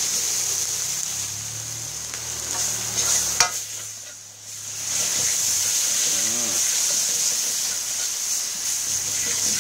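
Chili curry paste sizzling in hot oil in an aluminium wok while a spatula stirs and scrapes it around the pan; the paste is being fried until fragrant. A sharp knock of the spatula on the wok a little over three seconds in.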